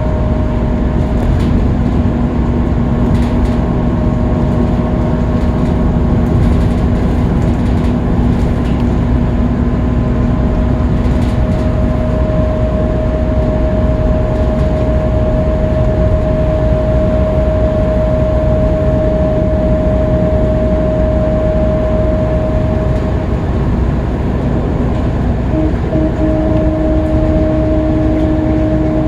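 Scania K310UB bus running at a steady speed on a freeway: an even drone of engine and road noise with steady whining tones. The lower whine fades out partway through, and a slightly higher one sets in near the end.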